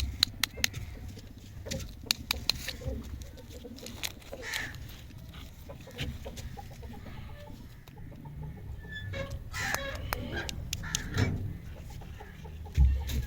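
A run of sharp clicks and taps, with short clucking calls like a hen's about two-thirds of the way through.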